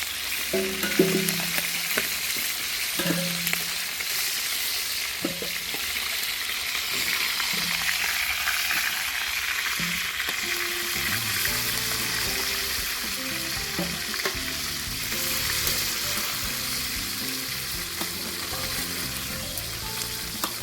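Chicken drumsticks sizzling steadily as they fry in oil in a pan. Faint background music comes in about halfway.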